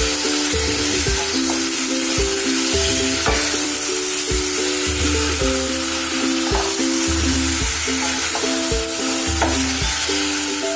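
Chicken pieces in a spice-paste marinade sizzling as they fry in a little oil in a non-stick kadai, stirred with a wooden spatula. Background music with a steady melody and bass plays over the frying.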